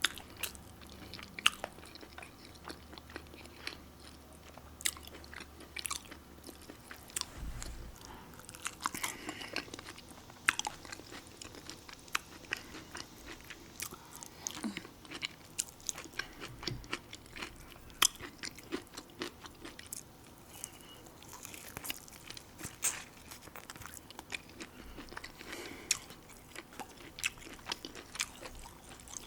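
A person eating close to the microphone: steady chewing with irregular crunchy bites and sharp wet mouth clicks.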